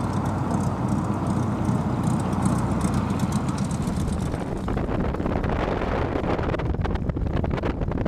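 Aircraft piston engine running steadily, heard with heavy wind noise on the microphone; about five seconds in the sound turns rougher and more buffeted.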